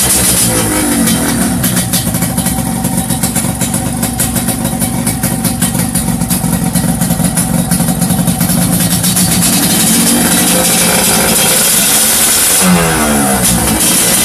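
Yamaha RX-King two-stroke single-cylinder motorcycle engine running through an aftermarket exhaust: the revs drop back to a steady idle, then rise again near the end with a quick sharp blip of the throttle that falls away.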